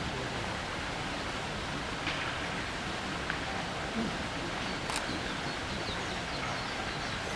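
Steady rushing noise of flowing water, with a single sharp click about five seconds in.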